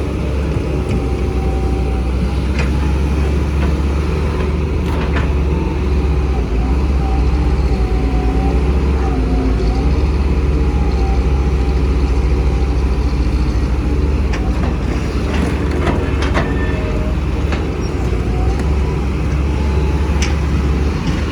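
Large diesel excavator working: a heavy engine rumble that rises and falls under load, with a wavering whine above it and a few short metallic clanks.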